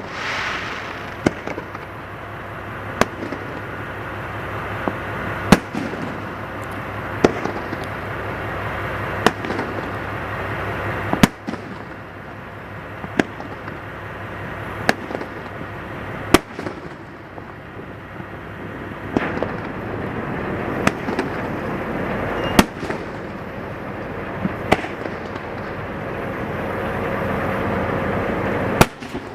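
Aerial fireworks shells bursting in a continuous display: loud sharp bangs about every one and a half to two seconds, over a steady din.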